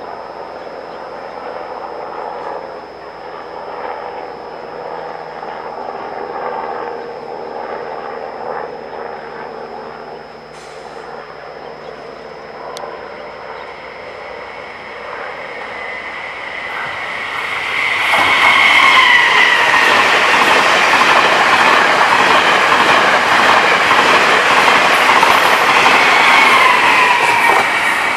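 A train running through a station: a steady rumble at first, growing much louder about eighteen seconds in as it comes close. The wheels clack on the rails, and a high wheel squeal wavers in pitch.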